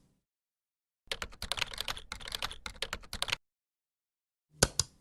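Rapid clicking like typing on a keyboard, lasting about two seconds, followed near the end by a pair of sharp clicks.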